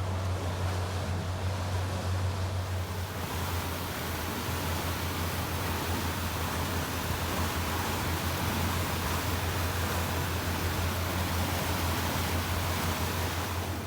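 A fishing boat under way, its engine a steady low hum under a rush of wind and water that grows louder about three seconds in.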